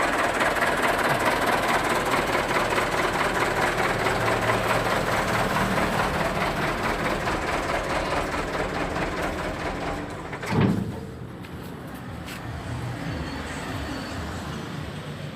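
A heavy vehicle's engine runs steadily. About ten and a half seconds in there is a short loud rush, and after it the noise drops lower and quieter.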